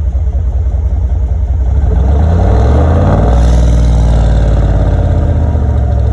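2009 Chevy Tahoe's 5.3-litre Vortec V8 with a muffler delete, revved once from idle: the exhaust note climbs for about two seconds, peaks around the middle, then falls back to idle.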